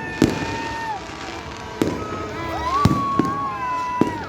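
Aerial fireworks going off: five sharp bangs over continuous crackle, with a high held tone in the second half.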